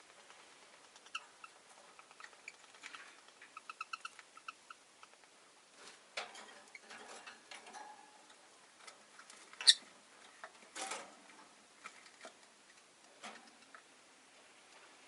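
Rosy-faced lovebirds in a cage: a quick run of short, soft chirps in the first few seconds, then scattered clicks and brief rustles of the birds moving about, with one sharp, loud click about ten seconds in.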